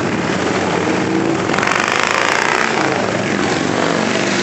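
A stream of motorcycles riding past, their engines running steadily, with one bike passing closer and louder for about a second, a little after one and a half seconds in.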